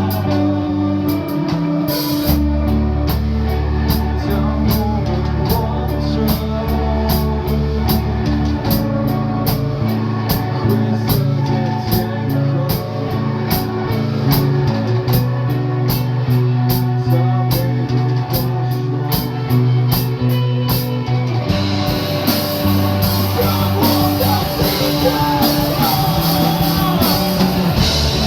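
Rock band playing live: electric guitar, bass and drum kit, the drums keeping a steady hi-hat pulse over held bass notes. About 21 seconds in the drums open up into a loud wash of crash cymbals.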